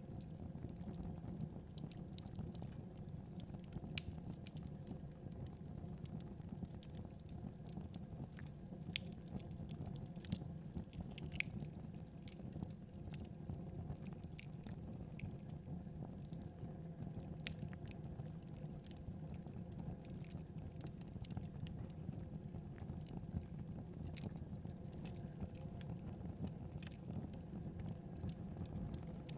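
Wood fire burning: a steady low rumble of flames with scattered sharp crackles and pops, a few louder snaps among them.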